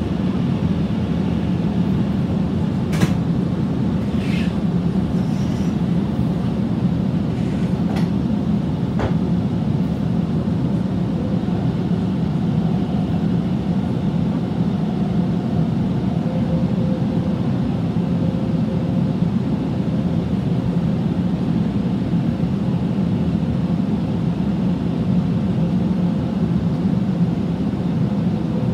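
Inside a Sydney Trains Millennium (M set) double-deck electric train running along: a steady low rumble of wheels and running gear, with a few sharp clicks and knocks in the first ten seconds and a faint high hum that comes and goes in the middle.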